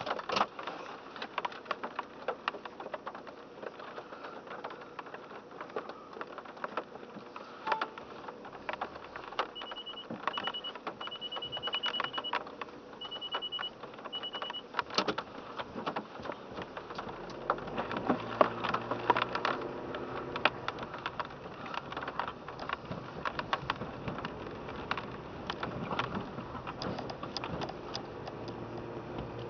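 Rain pattering and dripping on a car's roof and windshield, heard from inside the cabin as many irregular ticks over a steady hiss. Partway through there is a short run of high electronic beeps, and after that the engine and wet-tyre noise of the car driving off.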